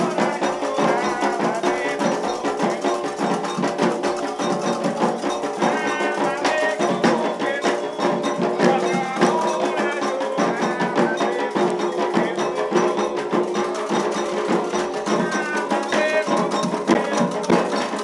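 Candomblé ritual music: dense, steady hand-drumming with a struck percussion pattern, and voices singing over it.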